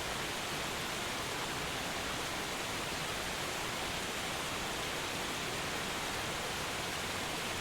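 Steady rushing of a waterfall, an even hiss with no change in level.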